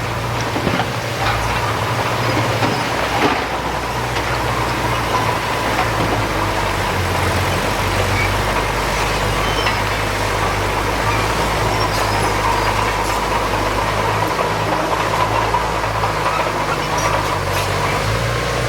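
Diesel engine of heavy earthmoving equipment running steadily under work, with scattered light metallic clinks.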